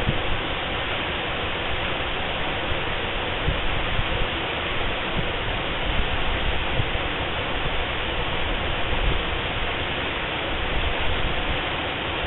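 Waterfall: a steady, even rush of falling water, with a few brief low thumps.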